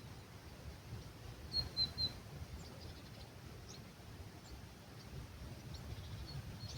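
Small birds chirping at dawn: scattered short, high chirps, the loudest a quick run of three or four notes about a second and a half in, over a steady low rumble of breeze.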